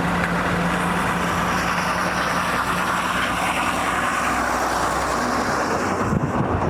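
Road traffic: a motor vehicle passing close by, its engine hum and tyre noise swelling through the middle and easing off near the end.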